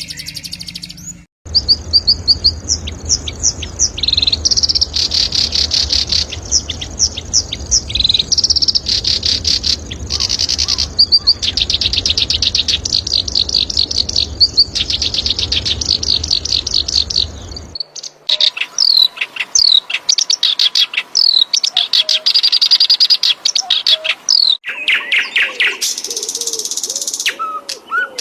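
Recorded songbirds singing fast, high trills and chirps in a spliced series of clips, with abrupt cuts between recordings. A low steady hum runs under the first long stretch.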